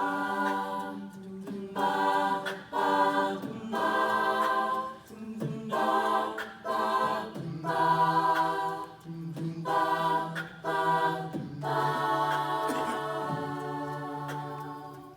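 An a cappella group singing chords with no instruments, the voices coming in as rhythmic stacked blocks over a held low bass note; the singing stops just before the end.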